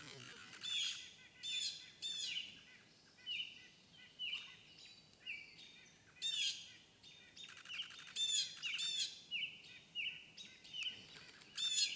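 Birds calling: a run of short, high calls repeated about once or twice a second.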